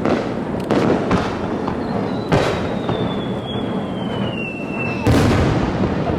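Fireworks display: a run of shell bursts going off, with a thin whistle sliding slowly down in pitch for about three seconds in the middle, and a heavier burst near the end.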